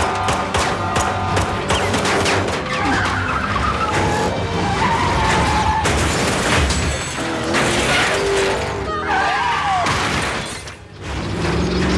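Action-movie car-chase soundtrack: orchestral score over car engines, tyre squeals and crashes. Squeals glide around three seconds in and again near the end, with a brief drop in loudness just before the end.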